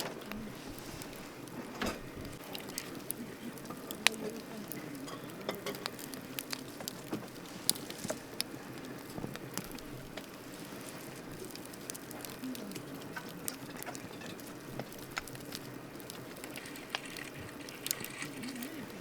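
Wood campfire crackling: irregular sharp pops and snaps, a few of them loud, over a steady low hiss of burning.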